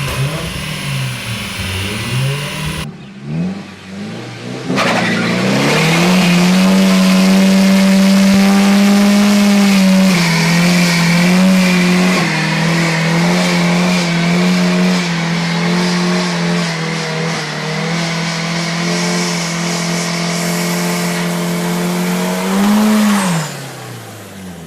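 Toyota Mark II car engine held at steady high revs on a dyno for a long stretch, with a few small steps in pitch, then rising briefly and dropping off near the end. The first few seconds hold a shorter burst of revving that swells and falls in pitch.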